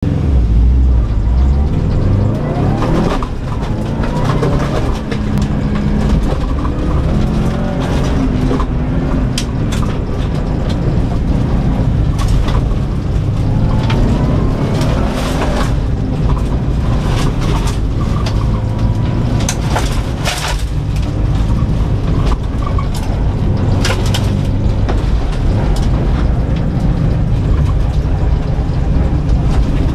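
2004 Subaru Impreza WRX STI's turbocharged flat-four engine under hard acceleration, heard from inside the cabin, its revs climbing several times. Many sharp knocks and clatters from dirt and stones striking the car's underside on the rough course.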